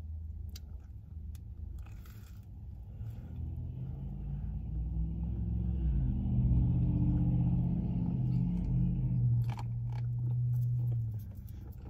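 A car engine close by comes up in pitch, then holds a steady hum for several seconds before stopping near the end, over a low steady rumble. There are a few soft crackles of eating a sandwich.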